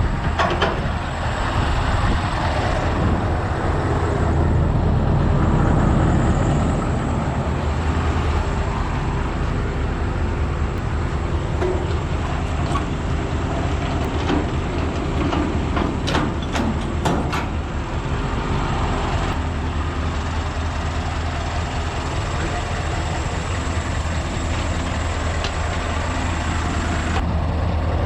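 Scania V8 truck engine running steadily with a low drone, and a quick run of sharp clicks about sixteen seconds in.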